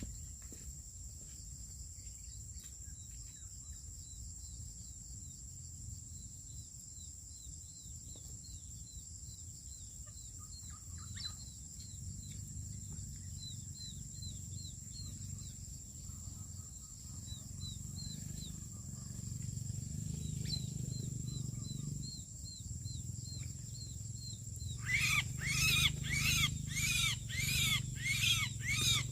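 Faint high chirps and a steady high-pitched tone over a low rumble. About 25 seconds in, a bird starts giving loud, harsh calls over and over, about two or three a second.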